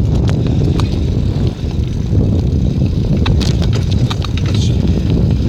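Wind buffeting the microphone while riding a bicycle, a loud steady low rumble, with a few sharp clicks and rattles from the bike scattered through it.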